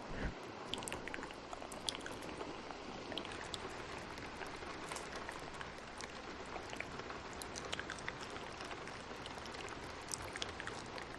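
Steady rain hiss with many small sharp clicks and drops scattered through it, as the tail of a thunder rumble dies away in the first moment.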